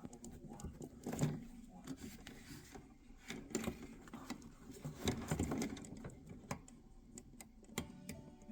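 Irregular clicks, knocks and clatter of tools and metal parts being handled during a furnace blower motor swap, over a steady low hum.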